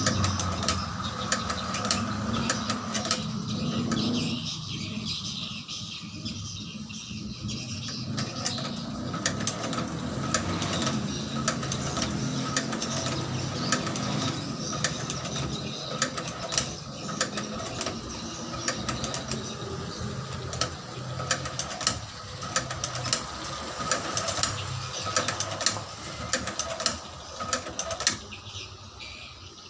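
Machine-powered shoe-sole stitching machine running, a steady mechanical hum with many sharp, irregular clicks, quieting near the end.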